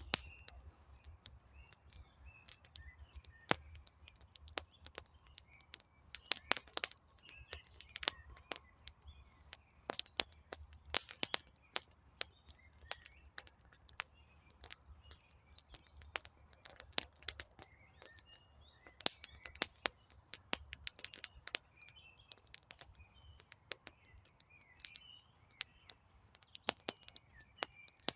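Wood fire crackling with frequent sharp irregular pops and snaps, over a low rumble of flame, while small birds chirp in the background.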